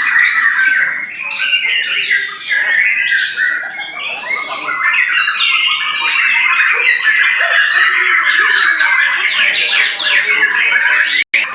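Many caged white-rumped shamas (murai batu) singing at once in a competition, a dense, loud, overlapping chorus of whistles and rapid chattering phrases. The sound cuts out for an instant near the end.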